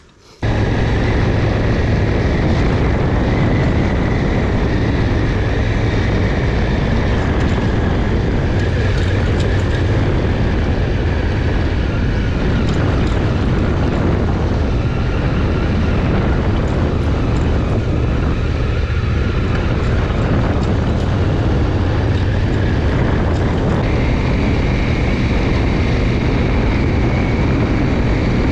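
Honda CRF1000L Africa Twin's parallel-twin engine running steadily while riding, with wind noise over the microphone.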